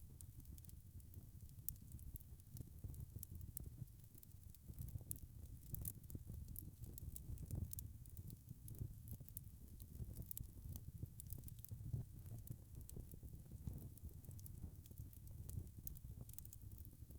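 Log fire burning in a fireplace: a low, steady rumble of flames with irregular sharp crackles and pops from the burning wood.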